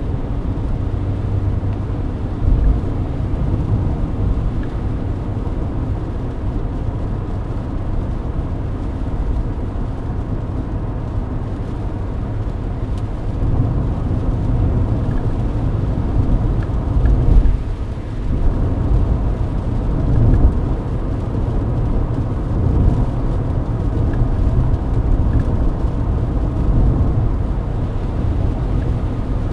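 Cabin noise of a Mercedes-Benz W124 cruising at highway speed on a wet road: a steady low rumble of engine and tyres. There is a brief louder surge and short dip a little past halfway.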